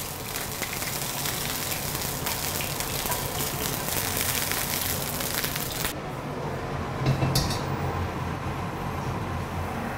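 Chicken wings sizzling and crackling in hot oil in a frying pan at the end of pan-frying. The sizzle cuts off suddenly about six seconds in, leaving a quieter low hum with a brief hiss a second later.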